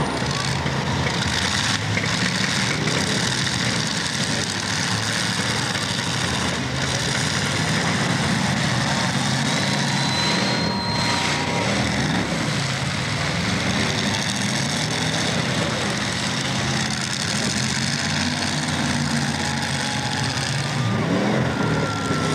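Several demolition derby cars' engines running together, revving up and down as the cars push and ram each other, over a steady dense noise.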